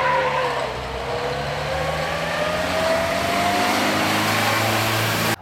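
Vintage racing car's engine under hard acceleration up a hill climb. Its pitch dips, then climbs steadily as it pulls up the hill.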